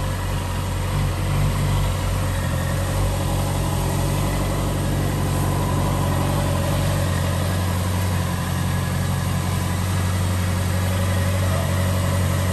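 Honda CBR650R's inline-four engine idling steadily.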